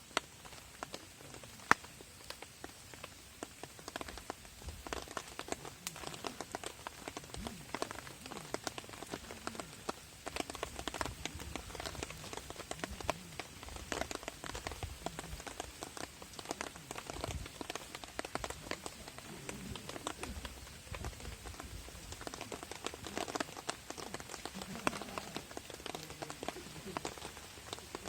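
Rain hitting a camping tarp overhead in dense, irregular taps, growing thicker about four seconds in, with one sharper tap about two seconds in.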